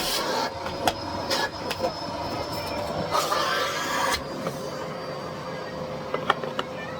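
Miele Blizzard CX1 cylinder vacuum cleaner running, a steady motor whine with swells of rushing air as the floor head works, and a few sharp clicks of debris being picked up.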